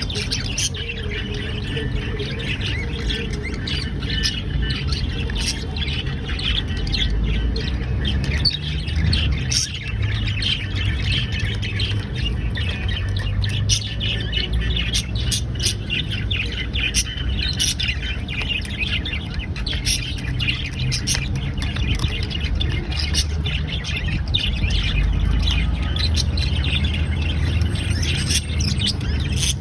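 Budgerigar chicks squawking and chirping continuously in a dense, overlapping chatter, over a steady low rumble.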